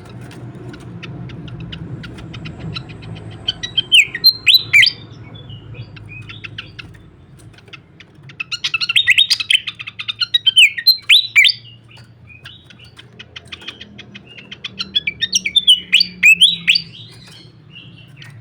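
Srikatan kipas songbird singing in three bursts of rapid sharp chirps and down-slurred whistled notes, a few seconds apart, over a faint low hum.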